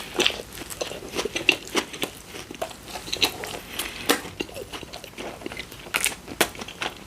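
Close-miked eating sounds: bites and chewing of a sub sandwich, with irregular wet clicks and small crunches.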